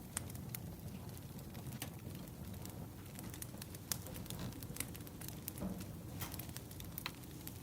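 Firewood burning: a steady low rumble of flames with scattered sharp crackles and pops.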